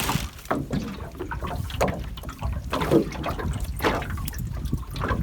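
Water splashing and trickling in irregular spurts as a gill net is hauled by hand up out of the water, over a steady low rumble.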